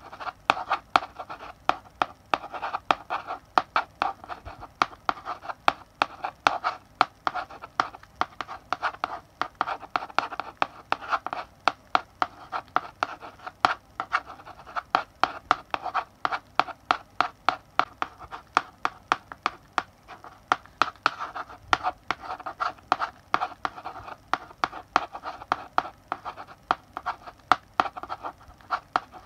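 Chalk writing on a blackboard: quick, irregular taps and short scratching strokes as letters are written, with the scratch strongest in the mid range.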